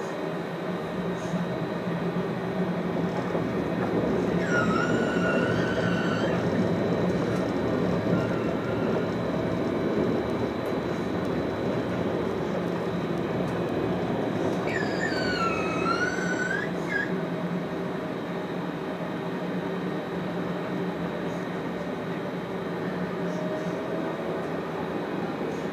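Alstom Citadis 403 electric tram running on rails: a steady rumble with a faint high steady whine, and a wailing wheel squeal twice, about five seconds in and again around fifteen seconds in, the second bending down and up in pitch.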